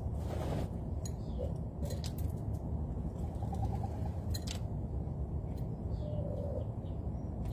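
Wild birds at a feeder: a short run of low pulsed calls and a brief low note like a coo, with a few sharp clicks over a steady low rumble.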